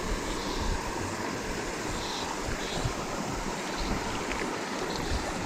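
Steady rushing of a small mountain stream, with wind buffeting the microphone.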